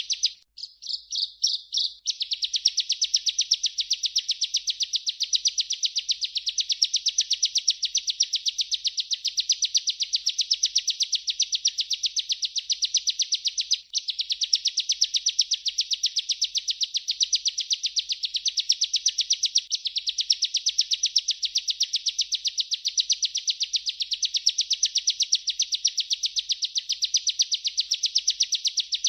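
Ciblek (bar-winged prinia) singing its 'ngerol' song: a long, unbroken trill of rapid, evenly repeated high notes. The trill breaks off briefly at the start into a few separate notes, resumes about two seconds in, and drops out for a moment about halfway through.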